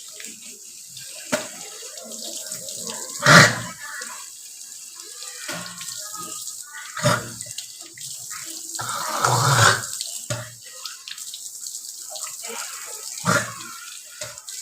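Tap water running into a bathroom sink, with four louder mouth sounds of rinsing and spitting during toothbrushing; the longest lasts about a second, near the middle.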